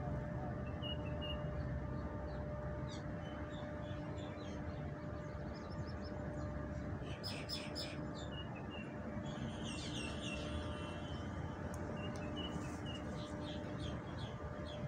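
Small birds chirping in short, scattered bursts, busiest about halfway through and again near the end, over a steady low background rumble with a constant hum.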